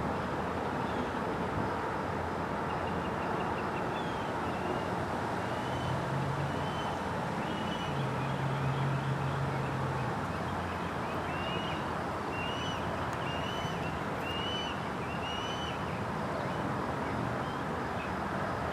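Young red-tailed hawk calling from far away: a series of short, thin calls repeated every second or so, over a steady background rumble.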